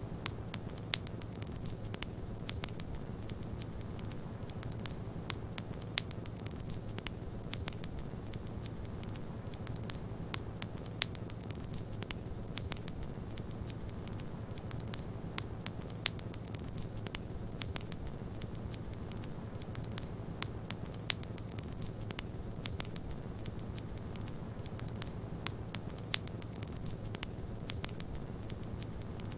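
Wood fire crackling, with scattered sharp pops, over a steady low rush of snowstorm wind.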